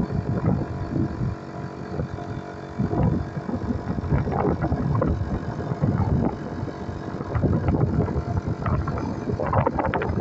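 VEVOR 12-volt portable air compressor running steadily as it inflates a flat truck tire, with gusts of wind on the microphone.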